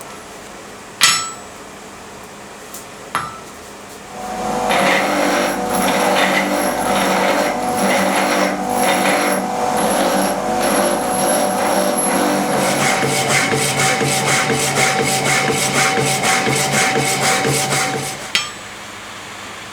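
Steel being worked by hand: two sharp metal clanks, then about fourteen seconds of fast, rhythmic scraping strokes that set the steel ringing, settling to about four strokes a second before stopping suddenly.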